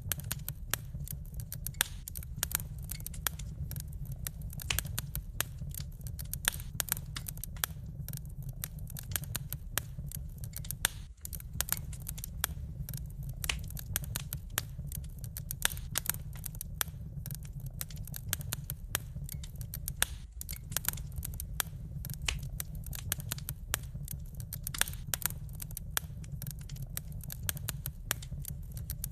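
Wood fire crackling in a fireplace: many irregular sharp pops and snaps of burning wood over a steady low rumble.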